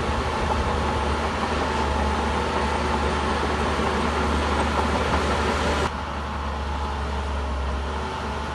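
Shantui D17C2 crawler bulldozer's diesel engine running steadily. The whole sound drops abruptly in level about six seconds in.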